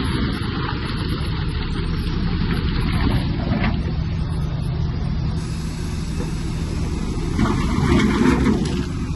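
Heavy diesel engine of earthmoving machinery running steadily under load, with a short louder stretch near the end.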